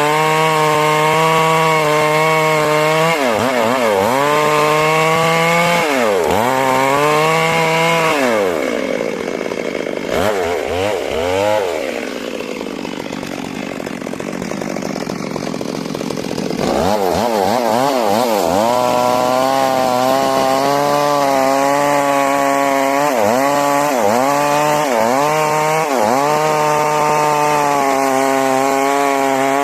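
Stihl MS 382 two-stroke chainsaw cutting into a large trembesi log, its engine pitch repeatedly dipping and recovering as the chain bogs under load in the wood. About eight seconds in the revs fall away to a lower, quieter run for several seconds, then climb back to full cutting speed.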